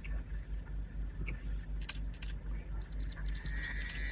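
Territorial blackbird calls. A few sharp clicks come about two seconds in, then near the end a run of quick high notes leads into a buzzy drawn-out note, all over a low steady rumble.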